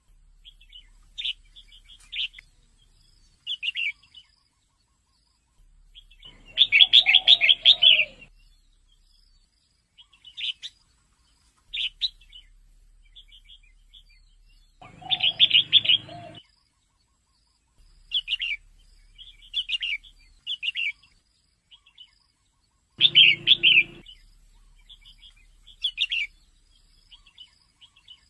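Female red-whiskered bulbul calling: scattered short chirps, broken by three louder runs of rapid chattering notes about eight seconds apart.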